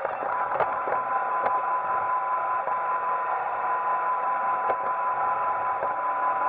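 Roomba 880 robot vacuum running: a steady whirr from its vacuum motor and brushes with a constant whine through it, and a few light knocks.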